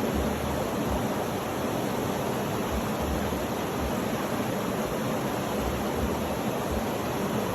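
Steady, even rushing noise with irregular low rumbles underneath.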